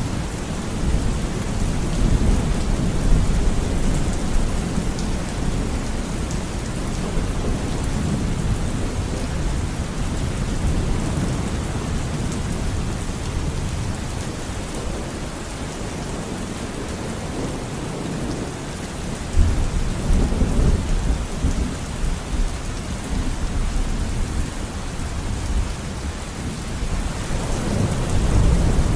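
Steady heavy rain with rolling thunder. A fresh rumble of thunder breaks in suddenly about two-thirds of the way through, and another swells up near the end.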